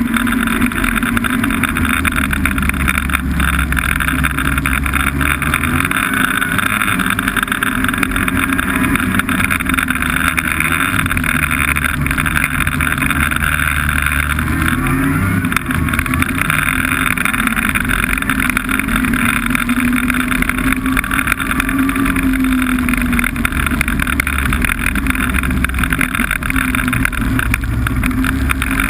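Snowmobile engine running steadily under way, its pitch wavering briefly about halfway through.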